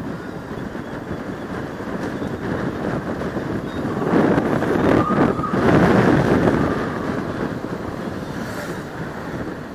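Motorcycle riding heard from a helmet camera: engine running under wind rushing over the microphone, swelling louder about four seconds in and easing again a few seconds later.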